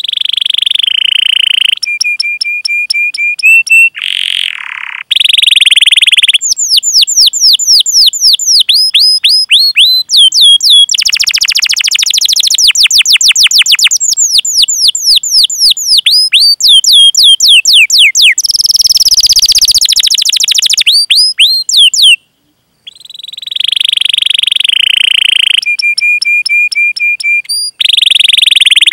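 Canary singing a long, loud song: fast trills, runs of quick falling 'cuit cuit' whistles, and two buzzy rolling passages, one starting about 11 seconds in and one about 18 seconds in. There is a brief break about 22 seconds in.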